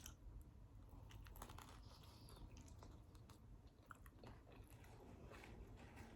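Faint chewing of pizza close to the microphone, with soft, irregular mouth clicks.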